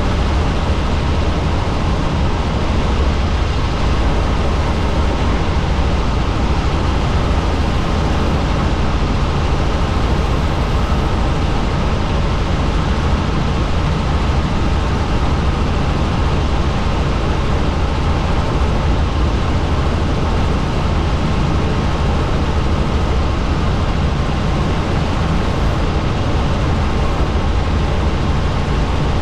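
Helicopter in flight: a steady, loud rush of rotor, engine and wind noise, heaviest at the low end, unchanging throughout.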